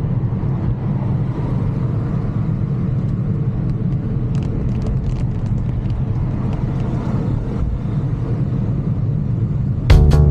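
Steady low rumble of wind and road noise on a bike-mounted camera's microphone while riding a mountain bike, with a few faint clicks in the middle. Music with a strong beat comes in near the end.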